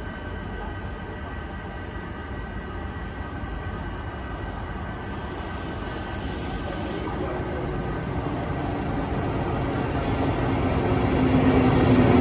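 A train approaching, its noise growing steadily louder, with a few steady whining tones over it.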